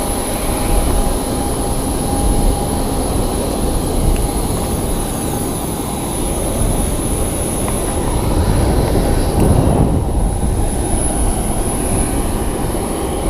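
Jet turbine engine running steadily, a dense roar with a constant high-pitched whine over it.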